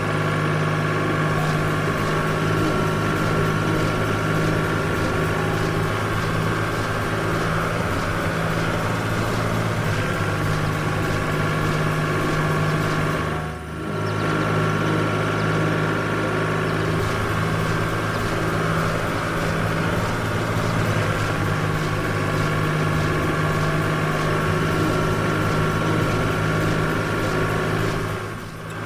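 Steady running of a heavy vehicle engine, like a truck idling, holding one pitch throughout. It dips briefly about halfway through, then picks up again unchanged.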